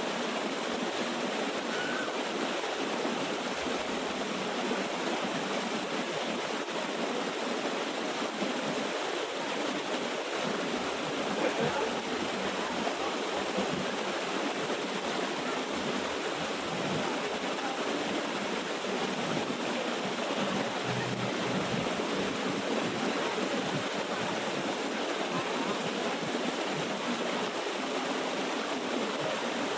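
Water of a small waterfall rushing steadily.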